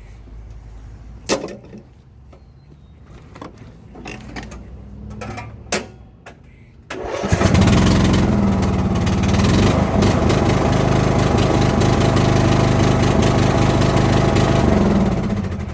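Craftsman LT2000 riding mower engine starting suddenly about seven seconds in, after a couple of sharp clicks, then running steadily for about eight seconds before shutting off near the end. It now starts on a recharged battery, where before it had not cranked or clicked at all.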